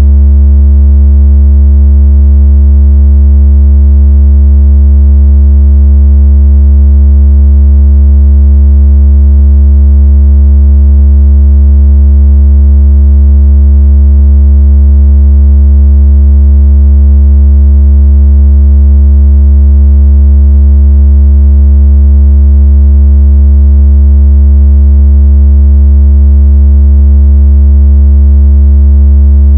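Loud, steady, deep synthetic bass tone, unchanging throughout with faint higher overtones. It is a water-ejection tone meant to shake water out of a phone speaker and to mimic strong phone vibration.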